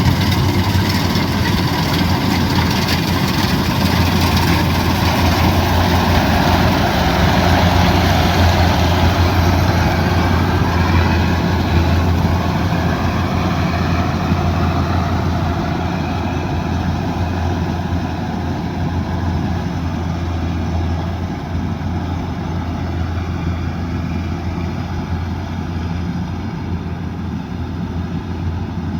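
Kubota DC108X combine harvester's diesel engine running steadily with a constant low drone, growing slightly quieter over the second half.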